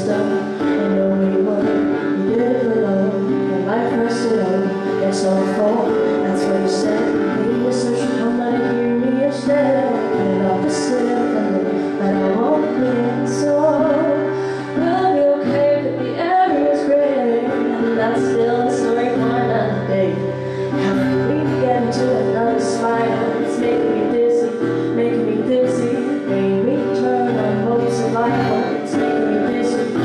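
Acoustic live song performance: a woman singing over guitar accompaniment.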